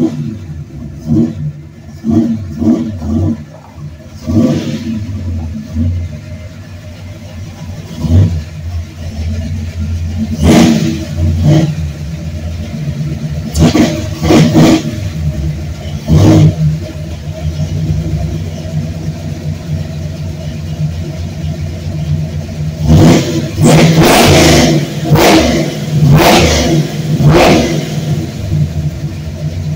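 Ford Cleveland V8 in a 1970 Torino running, revved repeatedly in short bursts: a few in the first seconds, several more spaced out through the middle, and a quick run of them near the end.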